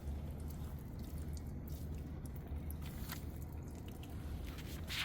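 Water dripping from the drained water heater tank's opening, scattered irregular drips over a steady low hum, with a brief hiss near the end.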